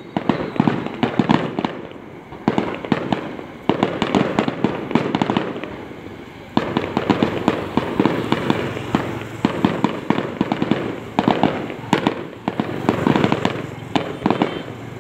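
Fireworks going off in rapid crackling, popping volleys, with short lulls about two and six seconds in.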